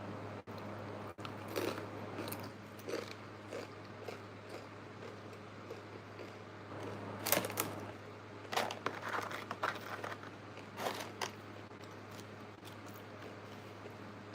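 Close-miked crunching, biting and chewing of food in scattered bites, the loudest crunch about seven seconds in and a cluster of bites a little later, over a steady low hum.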